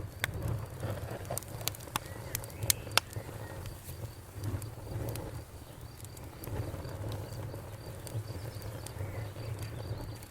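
Wood fire in a fireplace crackling: a steady low rumble of flames with scattered sharp pops and snaps, the loudest few coming in quick succession about two to three seconds in.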